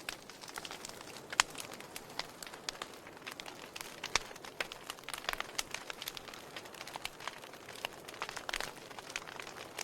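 Campfire crackling: irregular sharp pops and snaps over a steady hiss, with two louder pops, one about a second and a half in and one about four seconds in.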